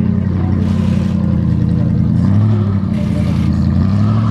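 Naturally aspirated car engine with individual throttle bodies running close up at idle. Its pitch rises slightly twice, about two seconds in and near the end, with light throttle.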